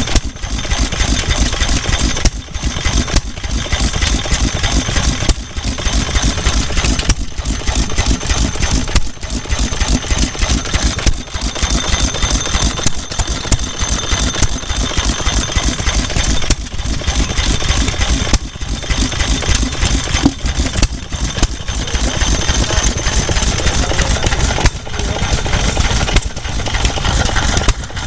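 Vintage stationary engine running with a rapid, even firing beat.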